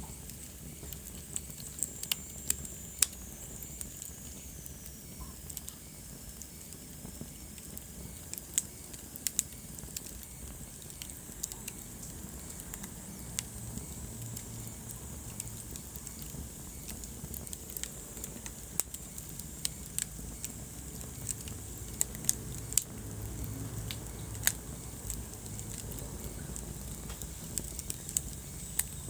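Wood fire crackling in a fireplace: irregular sharp pops and snaps over a low steady rumble of the flames, with a faint high whistle that falls in pitch a few seconds in.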